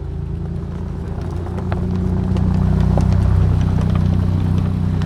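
Car engine running with a low, steady rumble that grows louder about a second and a half in and then holds.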